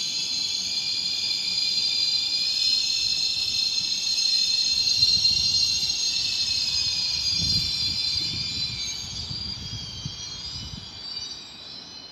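Train wheels squealing on the rails: a high, multi-tone squeal over a low rumble, drifting slightly in pitch and fading over the last few seconds.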